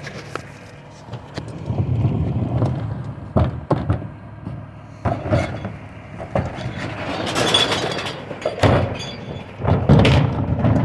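Recycling truck working: its engine runs under a series of knocks, clanks and crashing clatter, the longest burst of clatter about seven seconds in, like a load of recyclables being tipped into the hopper.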